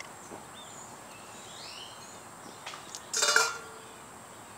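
Faint bird chirps in the yard, with one brief, louder scuff about three seconds in.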